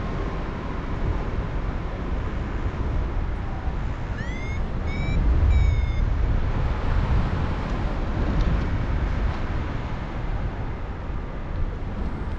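Steady wind rush buffeting the microphone in flight under a paraglider. About four seconds in, three short whistled calls sound over it, the first sliding up and the last sliding down.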